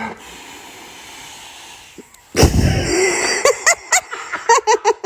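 A blown-up balloon bursting with a single loud bang about two and a half seconds in. Right after it, a voice cries out in quick, high-pitched bursts.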